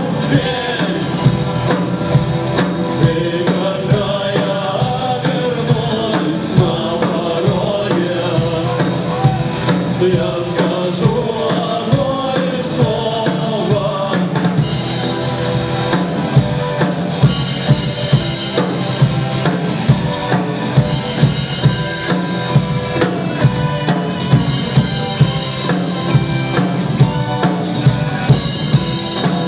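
A live band playing rock music with a prominent drum kit: a steady kick-and-snare beat under a wavering melodic line, and the cymbals grow louder about halfway through.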